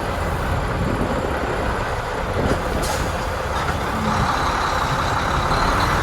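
Semi-truck diesel engine running steadily at low speed while the tractor-trailer reverses.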